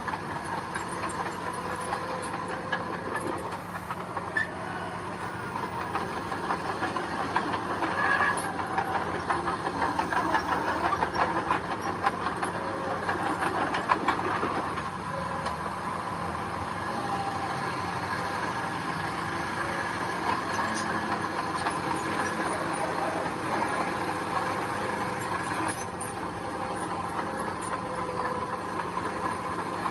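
Heavy diesel earthmoving machinery running steadily with a constant metallic clatter, a little louder around the middle.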